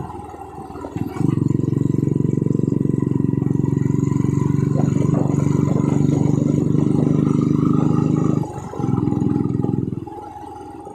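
Motorcycle engine running under way, a steady low drone that drops away briefly near the start, again a little after eight seconds, and near the end as the throttle eases off.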